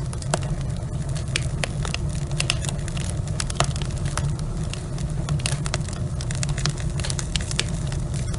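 Wood fire burning in a fireplace: logs crackling and popping with many sharp, irregular snaps over a steady low rumble of the flames.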